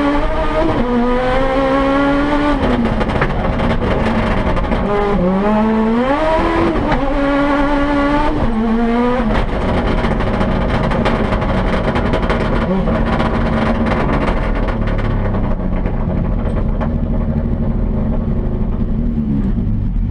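Turbocharged 998 cc three-cylinder engine of a Toyota Yaris rally car, heard from inside the cabin under hard driving. It revs up through gear changes, with a sharp drop in revs and a climb back about five seconds in. After about nine seconds it runs steadier and lower.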